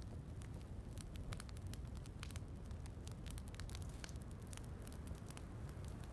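Wood fire in a fireplace crackling, with many irregular sharp pops, over a steady low rumble of rain.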